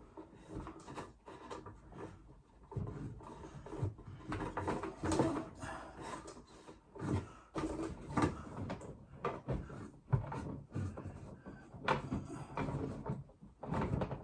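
Irregular knocks, clicks and scrapes of hand work, with things being handled and set down.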